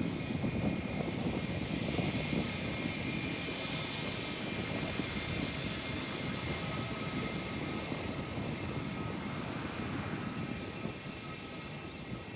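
Jet airliner engines passing low overhead: a loud rushing rumble with a steady high whine, loudest in the first few seconds and then slowly fading away.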